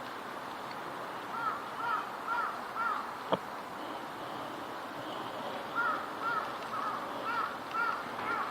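Crows cawing: a run of four caws, then after a pause a run of about six more, over a steady background hiss. A single sharp click sounds between the two runs.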